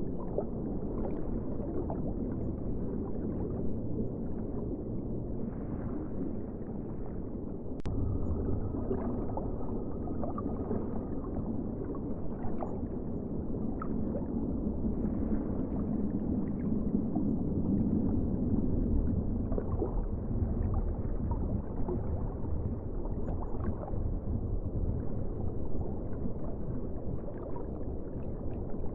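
Continuous ocean water ambience: a low, muffled wash of moving water with a gurgling texture, swelling and easing slightly.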